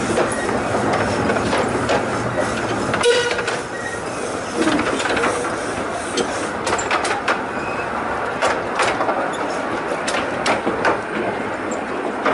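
Miniature steam railway train running, heard from an open carriage: steady rolling noise of the wheels with irregular clicks and knocks as the carriages clatter over the rail joints.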